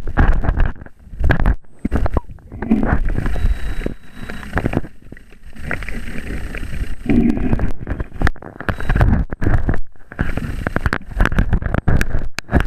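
Water sloshing and gurgling around a camera being moved through the sea at the surface, in irregular surges with short lulls between them.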